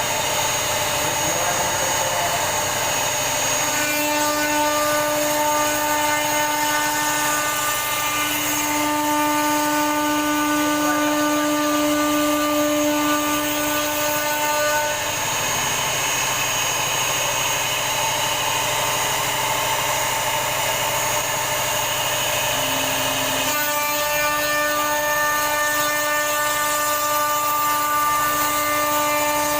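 CNC router spindle running as it carves a door design, a steady whine over a continuous cutting hiss. The whine fades out a little past halfway and comes back, slightly lower at first, about three quarters of the way through.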